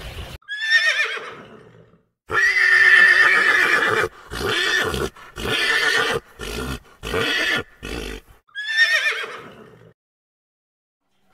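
A horse whinnying several times. A short falling whinny comes about half a second in, then a long loud one from about two seconds, a run of short choppy calls, and another falling whinny near the end.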